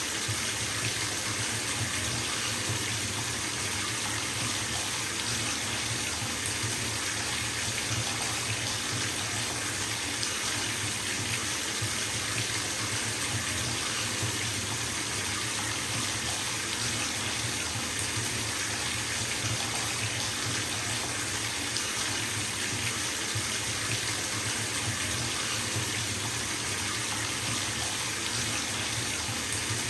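Bathtub filling from a running tap: water pouring steadily into the tub with an even, unbroken rush.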